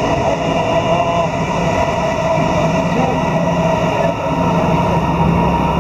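Electric trains running along the tracks below: a steady, continuous train noise with a few held tones in it.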